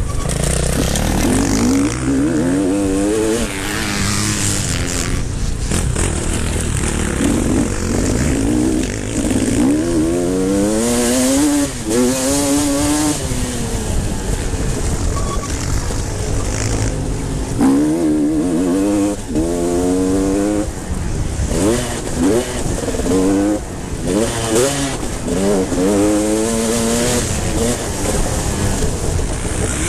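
Motocross bikes racing, their engines revving up and dropping back again and again as the riders go through the gears and several bikes come past.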